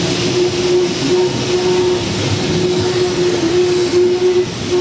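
Train running along the track: a steady, loud rushing noise with a humming tone that keeps cutting out and returning.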